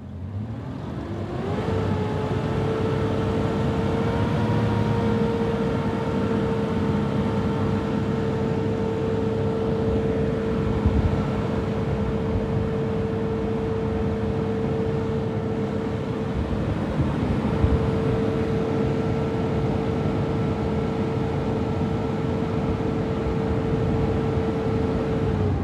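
Engine run up to raised revs about a second in and held there steadily with a clear whine, then let back down at the end.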